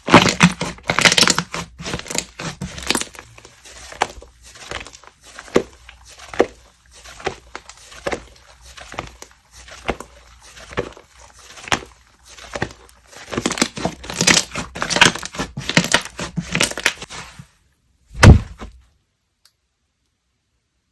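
Hands squishing and pressing a soft, fluffy soufflé slime, giving dense runs of wet clicks and little pops as the air pockets burst. Near the end there is a single dull thump.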